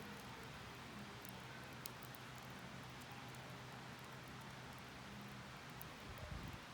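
Wood fire burning low in a campfire pit: a few faint, sharp crackles over a steady soft hiss, with a faint low hum underneath.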